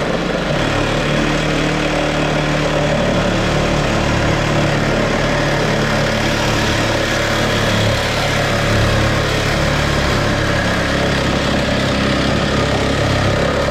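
1975 Plymouth Duster's slant-six engine idling loud and steady through a short, freshly fitted temporary exhaust.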